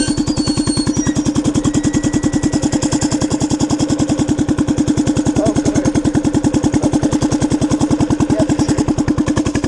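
Minibike's small engine running steadily at an even speed, a fast regular pulsing with no rise or fall in pitch.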